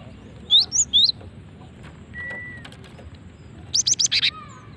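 Female gelatik batu (cinereous tit) calling. About half a second in come three quick rising whistled notes, then a steady held whistle. Near the end comes a rapid burst of about six sharp rising notes that ends in a lower falling note.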